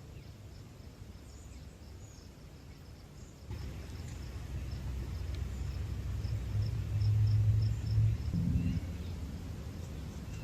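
Outdoor ambience: a low rumble, stronger from about three and a half seconds in, under a faint high chirping repeated evenly a few times a second.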